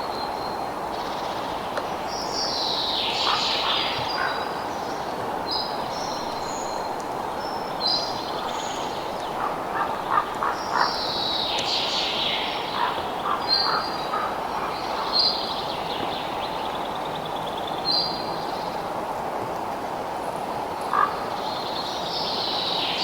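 Wild birds calling over a steady background hiss: short whistled notes and longer harsh, falling calls that come about every nine seconds, with a few faint clicks between them.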